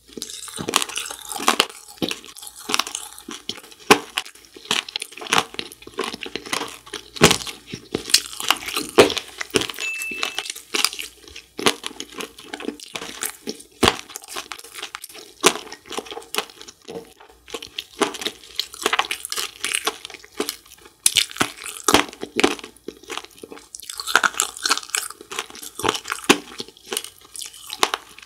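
Chewing of an Earth jelly gummy coated in galaxy candy sprinkles: a dense, irregular run of crunching and crackling mouth sounds.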